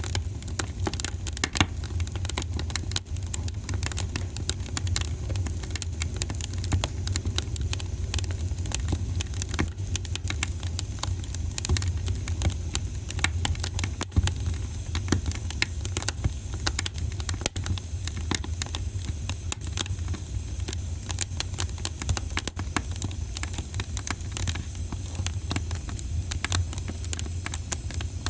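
Wood fire in a fireplace crackling, with a continuous stream of sharp pops and snaps over a steady low rumble.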